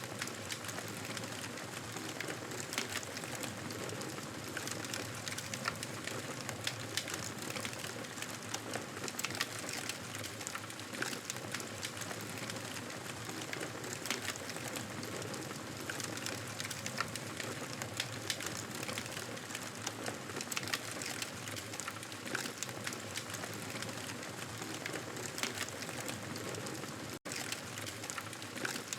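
Wood fire crackling: a steady soft hiss with many sharp little pops scattered irregularly through it, and a split-second gap in the sound near the end.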